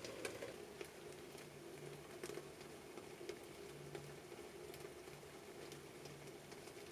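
Wood campfire crackling in a fire pit, with scattered sharp pops and snaps over a low steady hiss.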